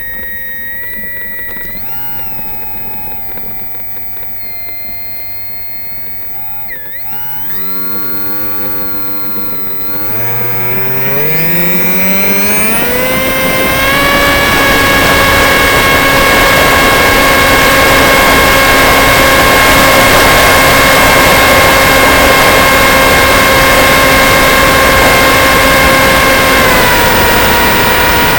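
Electric motor and propeller of a HobbyZone Aero Scout RC plane: a whine that wavers up and down in pitch at low throttle, climbs steadily as the throttle is opened about ten seconds in, then holds a loud, steady high whine with rushing air, dipping slightly near the end.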